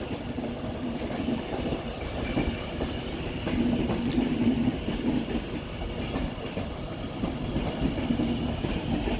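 Class 390 Pendolino electric train pulling slowly into the platform, with a steady hum that swells now and then and light clicks of wheels over the rail joints.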